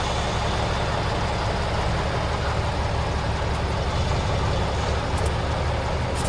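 Heavy truck-trial truck's diesel engine running steadily.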